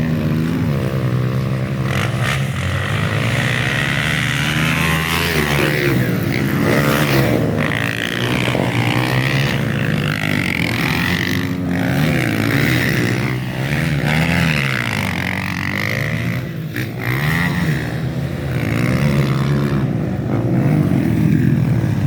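Several motocross bikes racing around a dirt track, their engines revving up and down as they accelerate and shift, overlapping one another.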